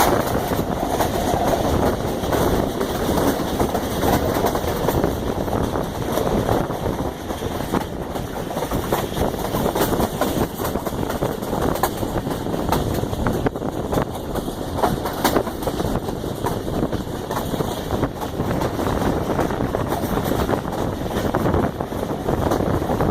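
Pakistan Railways passenger train running along the track: a steady loud rumble and rattle with many irregular sharp clicks from the wheels on the rails.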